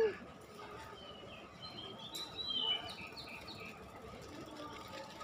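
The last falling note of a puter pelung dove's coo dies away at the start. Then small birds chirp softly, with a few short high whistled notes about two to three seconds in.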